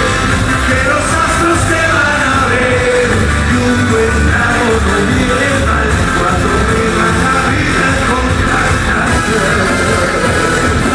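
Live cuarteto band playing loudly, with singing over a steady beat.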